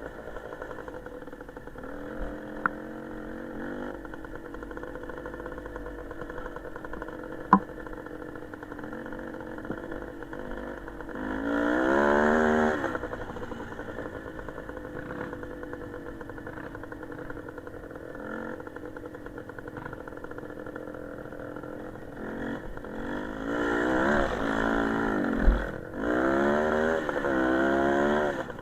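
Small motorcycle engine running, revving up in rising pitch sweeps about twelve seconds in and again several times near the end. A sharp knock about a third of the way in.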